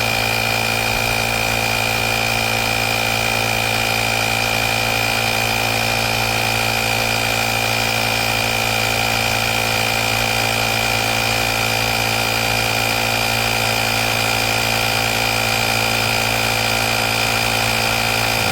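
Small 12 V piston air compressor built into a YaberAuto jump starter running steadily, a low hum with a steady high whine, as it pumps a car tyre up to its 2.2 bar set point and runs on until the auto shut-off.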